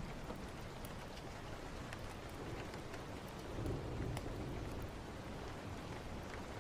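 Steady rain with a low rumble of thunder that swells and fades about halfway through, over scattered sharp crackles.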